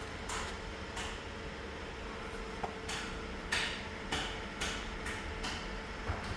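Scattered soft knocks and clicks, about eight spread unevenly, over a steady low hum.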